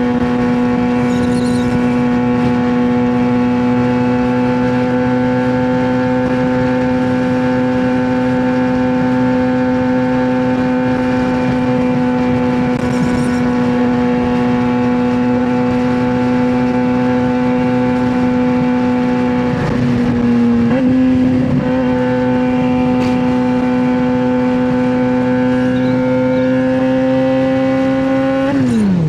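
Straight-piped 2009 Suzuki GSX-R600 inline-four running at steady high revs under way. Its note holds one even pitch, dips briefly and steps back up about twenty seconds in, then falls away sharply near the end as the revs drop.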